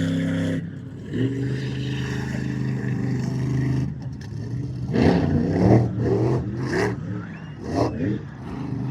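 Monster truck engine running at a steady speed, dropping out briefly about a second in, with a stretch of louder, uneven rising and falling sound in the second half before the steady engine returns near the end.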